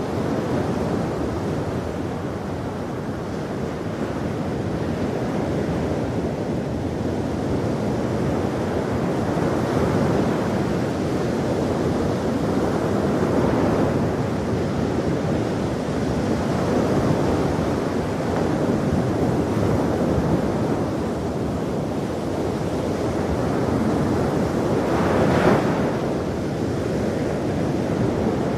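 Ocean waves breaking and washing on a shore, a steady rush of surf that swells and ebbs, with one sharper crash about 25 seconds in.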